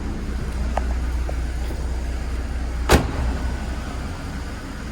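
BMW Z3 1.9-litre four-cylinder engine idling steadily while warming up after a cold start, with one sharp click about three seconds in.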